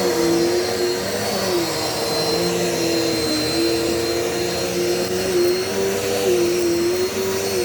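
Dirt Devil multi-surface vacuum cleaner running steadily while being pushed over medium-pile carpet: a motor whine with a high whistle, its pitch dipping slightly several times as the load on the motor changes.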